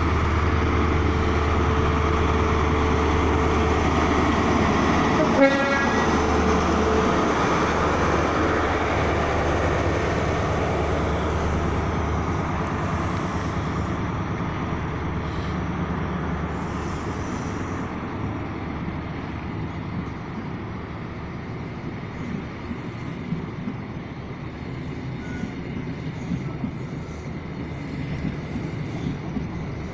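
A High Speed Train's Class 43 diesel power car is running with a steady low hum while the train moves off, with a sharp knock about five seconds in. The engine note fades after about twelve seconds, leaving the rumble of the Mark 3 coaches rolling past, slowly getting quieter.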